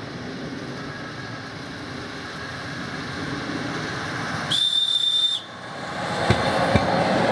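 ED4M electric train running with a steady rumble. About four and a half seconds in, its high-pitched whistle sounds once as a single steady tone lasting just under a second. The train's noise then grows louder, with a few sharp clicks.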